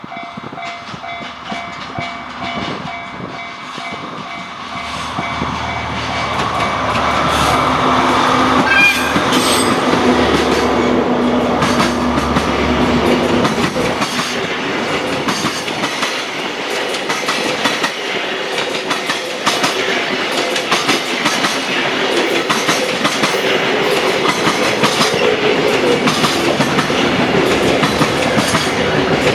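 JR Freight DF200 diesel-electric locomotive passing: a steady horn for the first few seconds, then the engine rumbles by, louder from about eight seconds in. Freight wagons follow, clacking rhythmically over the rail joints.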